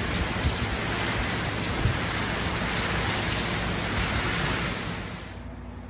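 Heavy thunderstorm rain pouring onto a wooden deck and picnic table: a dense, steady hiss with a couple of low thumps in the first two seconds. The rain cuts off about five and a half seconds in.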